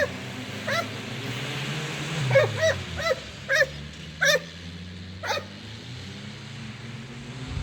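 A dog barking about eight times in short, high calls over the first five seconds. Beneath it, the car engine of a homemade snowmobile runs steadily, its pitch dropping briefly a little over two seconds in.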